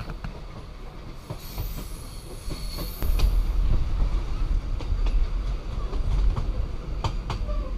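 Heritage steam train running on the rails, heard from a passenger carriage: a steady deep rumble of the wheels with scattered clicks from the track and faint high wheel squeals. It gets louder about three seconds in.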